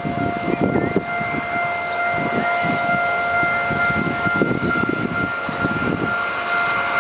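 Taiwan Railways E1000-series Tze-Chiang push-pull express passing close by: a rolling rumble from the coaches, with a steady high-pitched whine held over it.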